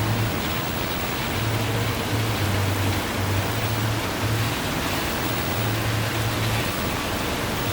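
Heavy rain falling steadily in a hiss of noise, with a low hum underneath that comes and goes.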